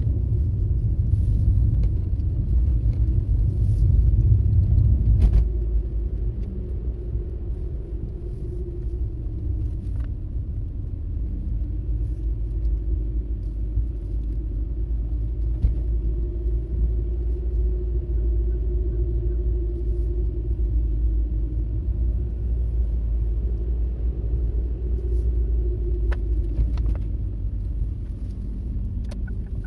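A car driving along a road, heard as a steady low rumble of engine and tyres that is louder for the first five seconds or so, with a faint hum and a few small clicks.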